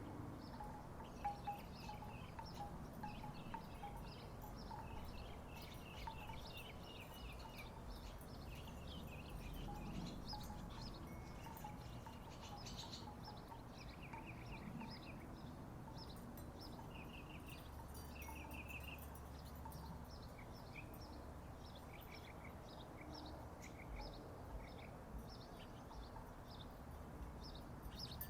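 Wooden tiki wind chimes knocking now and then, mostly in the first half, with birds chirping in short repeated bursts.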